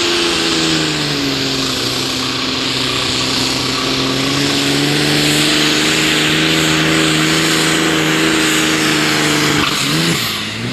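Pro Stock pulling tractor's turbocharged diesel engine under full load, dragging the weight sled, with a loud turbo and exhaust hiss over it. Its pitch sags in the first couple of seconds, climbs slowly after that, and drops away near the end as the pull breaks off short of full distance.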